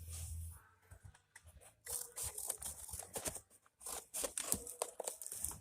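Irregular clicks, scrapes and rustling from hands-on work on building materials for a bird pen.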